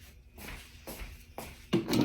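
Kitchen items being handled: a few light knocks and clinks about half a second apart, then a louder clatter with a short ring near the end.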